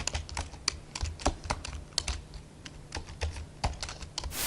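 A run of irregular, light clicks, several a second, over a low hum. Near the end a short, loud burst of hiss cuts in.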